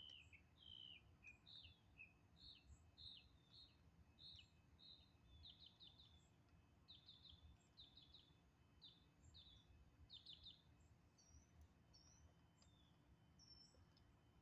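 Faint bird chirping: a steady run of short, falling chirps, about two a second, many in quick clusters of two or three, thinning about eleven seconds in to a few higher notes. A low, even rumble sits beneath.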